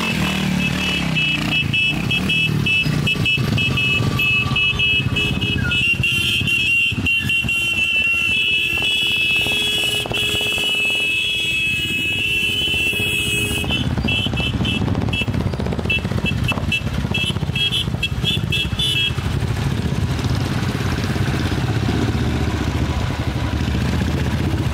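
Royal Enfield motorcycle engine running under way, a steady low rumble. A high pulsing buzz sits over it and stops about two-thirds of the way through.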